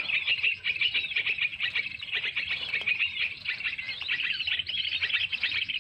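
Small songbirds chirping in a dense, continuous chatter of rapid high chirps.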